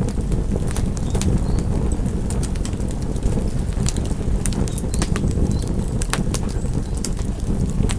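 Wood fire crackling: irregular sharp pops and snaps over a steady low rush of burning flames.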